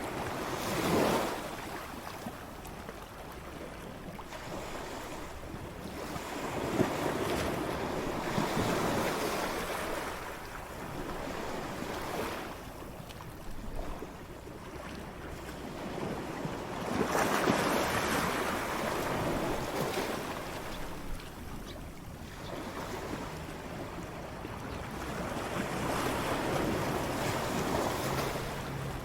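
Ocean waves breaking and washing up the shore, the surf swelling and fading in surges every few seconds; the loudest breaks come about a second in and about two-thirds of the way through.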